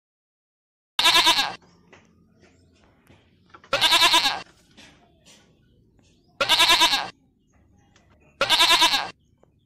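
A sheep bleating four times, each call well under a second long with a wavering pitch, a couple of seconds apart.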